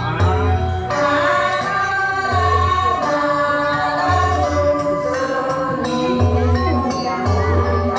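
Group singing of a Balinese janger song over instrumental accompaniment, with a low note pulsing on and off about every second.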